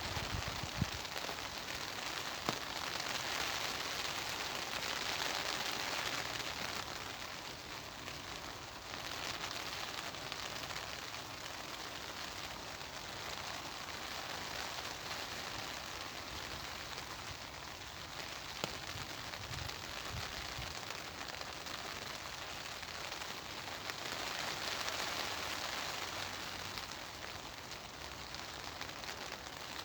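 Steady rain falling in a garden with wind. The hiss swells twice as gusts come through, and a few louder single drops land.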